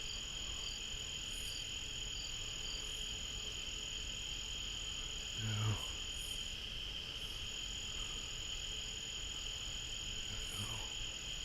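Steady outdoor insect chorus, a continuous high trill, with a second insect chirping about twice a second over the first few seconds. A brief faint voice-like sound comes about halfway through.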